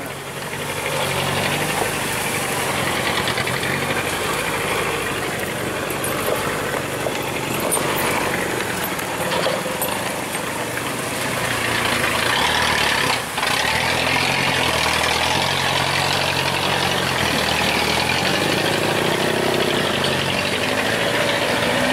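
Truck engine running steadily, getting louder about twelve seconds in.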